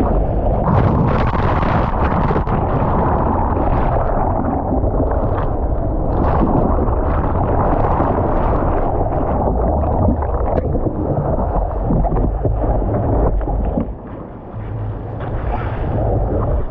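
Wind buffeting the microphone, a steady loud rushing rumble that eases briefly about fourteen seconds in.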